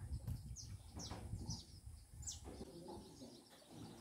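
Birds calling: four or five short, high notes that fall in pitch, spaced about half a second apart.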